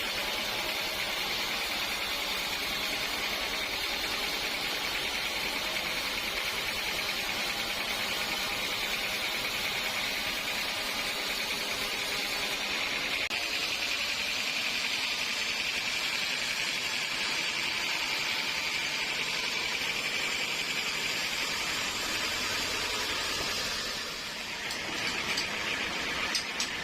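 Sawmill saw cutting through a teak log: a steady, even hiss. It dips briefly near the end, followed by a few sharp ticks.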